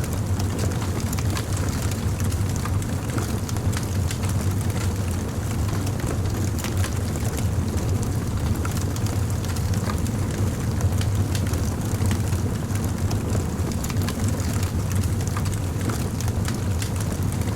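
Fire crackling with many small, sharp pops over a steady low rumble.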